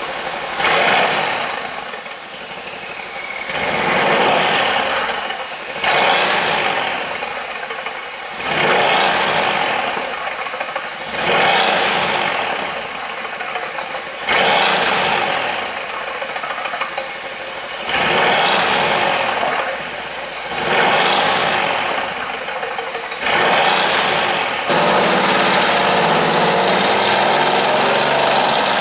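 Mercedes-AMG C63's twin-turbo V8 with a pop-and-crackle exhaust tune, revved about nine times in a row, each blip rising sharply and falling away as the revs drop. About three-quarters of the way through it settles to a steady idle.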